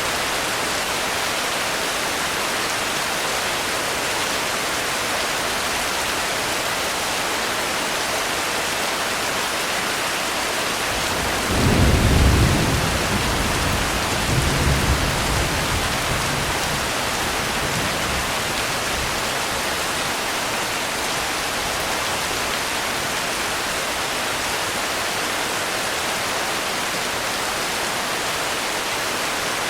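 Steady heavy rain hissing. About twelve seconds in, a low rumble of thunder rolls in, swells a second time and dies away over several seconds.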